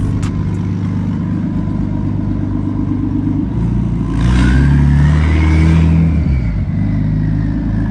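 Car engine idling, then revved about four seconds in and held for about two seconds before dropping back to idle, with a whine that climbs with the revs and slowly falls away afterwards.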